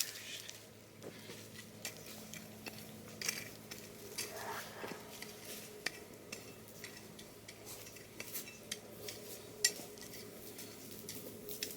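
A steady run of irregular light clicks, clinks and scrapes, about two to three a second, with one short rising squeak about four and a half seconds in.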